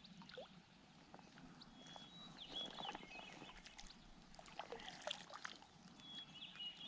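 Near silence, with faint high chirps twice, about two and a half seconds in and near the end, and soft small water splashes and clicks.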